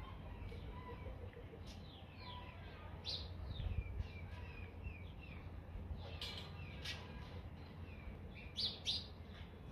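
Birds chirping repeatedly in short downward-sliding chirps, over a low steady background rumble.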